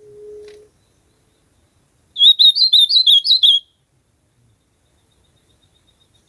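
Ultramarine grosbeak (azulão) singing one short warbled phrase of quick, repeated up-and-down notes lasting about a second and a half, starting about two seconds in. A brief faint low hum at the very start.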